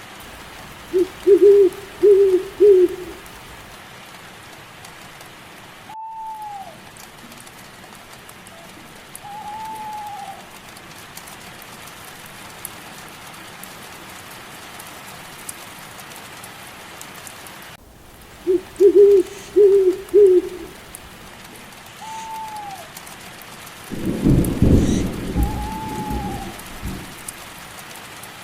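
Steady rain with two runs of four quick, low owl hoots, one near the start and one about two-thirds through, and a few short, higher arching animal calls in between. A low roll of thunder comes near the end.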